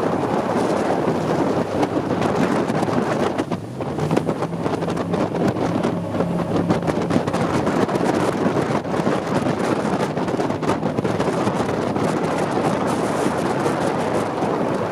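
Jet boat running on the river: its engine and the rush of water are buried in heavy wind buffeting on the microphone, with a short dip in loudness about three and a half seconds in.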